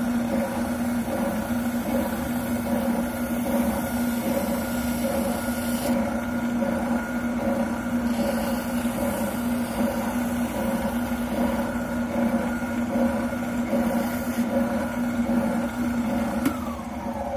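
Wilton oscillating sander's electric motor running steadily with a hum while a plastic shotgun buttplate is sanded on it; about a second before the end the motor is switched off and its pitch falls as it winds down.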